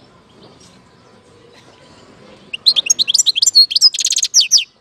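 European goldfinch singing: after a faint opening, a loud burst of rapid, high twittering notes, with a short buzzy trill in the middle, lasting about two seconds from about halfway in.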